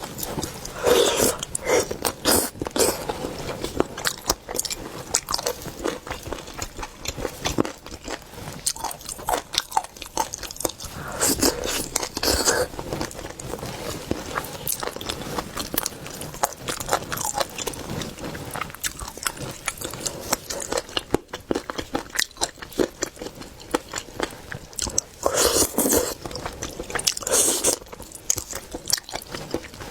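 Close-miked eating of cooked skate: irregular biting, crunching and chewing, with louder clusters of bites about a second in, around the middle, and near the end.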